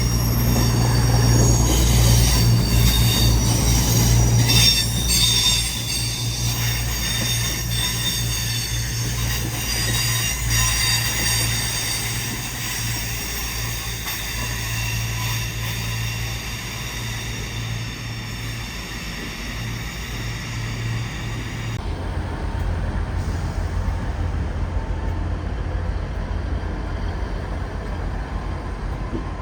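Train wheels squealing through the platforms in several high steady tones over a low rumbling drone. About two-thirds of the way through, the sound changes abruptly to a lower steady hum and the squeal is gone.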